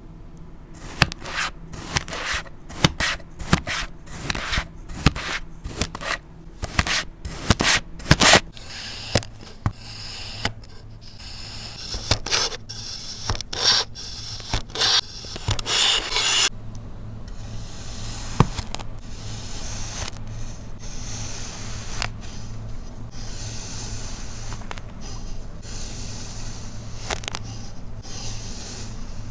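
Kinetic sand being cut with a blade: a quick run of sharp slicing strokes over the first eight seconds or so, turning into a denser, more even scraping for the rest.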